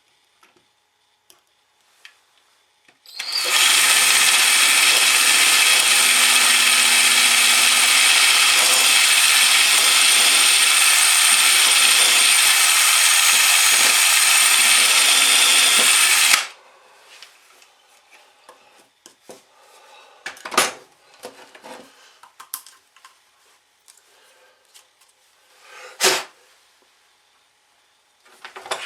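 Electric drill running steadily for about thirteen seconds, boring a fixing hole out to its final size after a pilot hole, then cutting off abruptly. A few sharp knocks and some handling noise follow.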